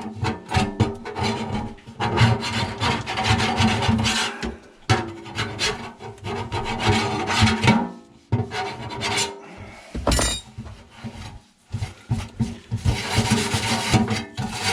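Rapid hand rubbing and scraping strokes as a surface is scrubbed clean, in several runs with short pauses.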